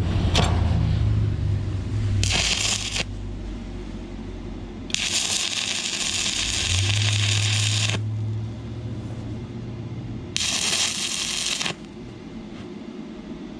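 Inverter stick welder's arc burning 6011 rods on thin, rusty, painted metal, crackling in three bursts: about a second long, then about three seconds, then just over a second, with a steady low hum underneath. The thin metal burns through.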